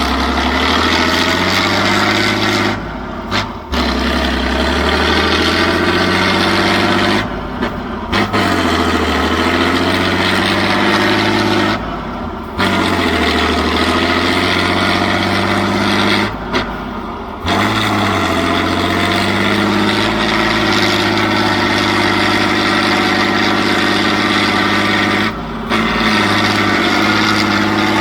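Heavy off-road trial trucks' engines running hard under load, with a dense engine note whose pitch shifts from section to section. The sound breaks off abruptly for an instant every few seconds.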